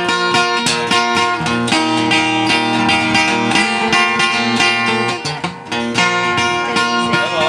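Acoustic guitar played solo as an instrumental passage: a steady run of plucked and strummed notes over a moving bass line, with a brief dip about five seconds in.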